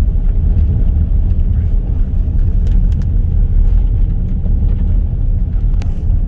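A car driving slowly, with a steady low road rumble heard from inside the cabin and a few faint clicks.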